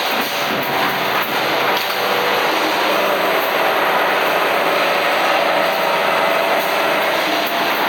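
Capillary tube cutting machine running steadily, a continuous mechanical noise with a faint whine and a few light clicks.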